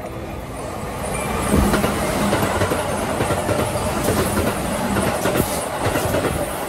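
Keihan 3000 series electric train passing close by. It grows louder over the first second and a half, then holds a steady rumble with wheels clacking over the rail joints.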